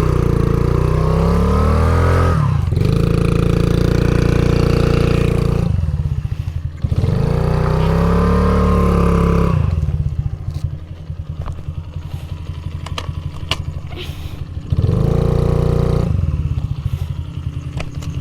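Small single-cylinder four-stroke dirt bike engine under way, revving up and down as it rides. The pitch climbs, dips briefly twice in the first six seconds, and climbs again. Through the second half it runs lower and rougher, with a few clacks, and gives one short rev near the end.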